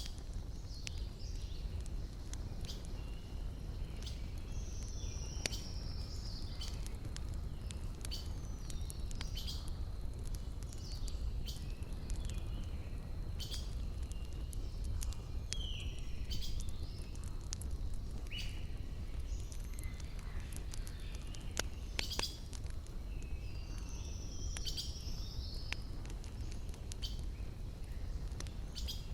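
Wood fire crackling with scattered sharp pops over a steady low rumble, while small birds chirp and call repeatedly.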